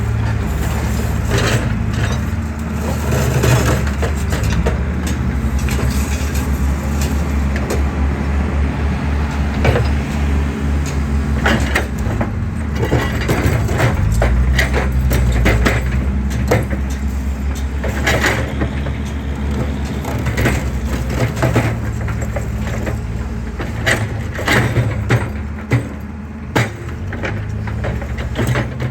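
Excavator's diesel engine running steadily under load while it crushes concrete, with many irregular sharp cracks and knocks as the concrete breaks.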